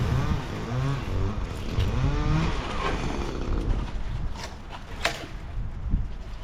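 Chainsaw engine revving up and down in short pulls, then easing off, with a few sharp knocks about four and a half to five seconds in.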